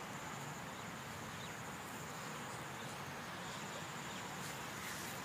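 Outdoor ambience: a steady hiss with a faint high insect trill that fades in and out.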